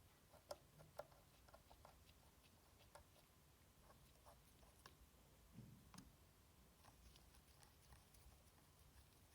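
Faint, irregular light clicks and taps of small hard parts being handled, with a soft low bump a little past halfway, as the PS4 Slim's hard drive and its parts are removed and cleaned by hand.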